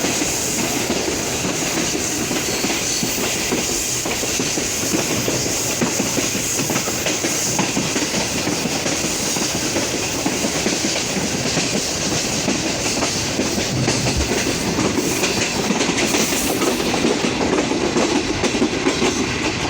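Pakistan Railways Green Line Express passenger train running at speed, its wheels clattering steadily over the rails in a continuous dense rumble.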